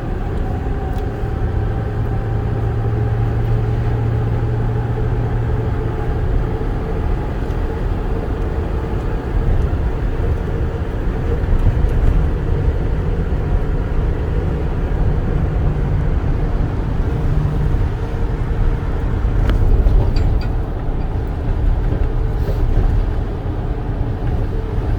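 2008 Ford F-450 bucket truck's turbodiesel engine pulling at road speed, heard from inside the cab with steady tyre and road noise. A few brief knocks about twenty seconds in.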